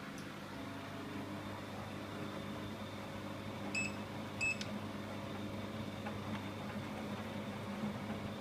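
Bosch Classixx WAA20280 washing machine, a unit with a damaged drum bearing, running with a steady hum. Two short electronic beeps come from its control panel about four seconds in.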